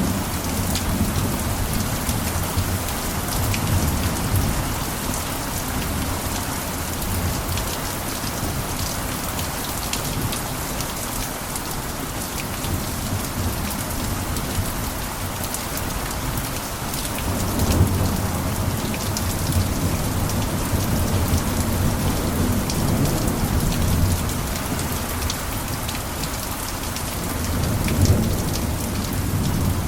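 Steady heavy rain pattering on a roof, dense with fine drop impacts. A deep low rumble swells in over the first few seconds, again from about halfway through, and peaks near the end.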